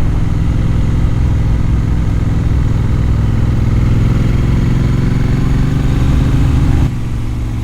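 Motorcycle engine heard from on board while riding, its pitch climbing slowly under acceleration. About seven seconds in the engine note drops suddenly, and a low rumble of wind and road noise runs underneath.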